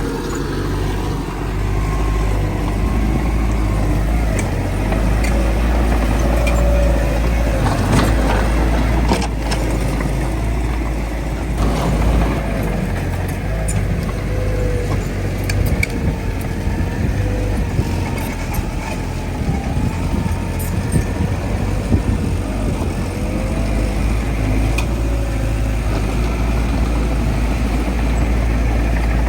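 Heavy diesel earthmoving machinery running steadily, its engine pitch wavering up and down, with a few sharp knocks.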